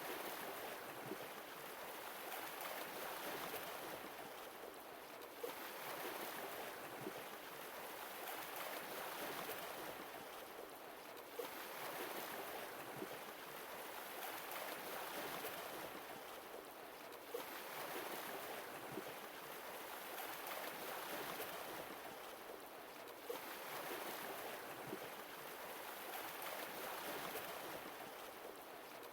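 Sea waves washing in and drawing back, a new wave swelling about every six seconds with a small sharp crack as each one begins.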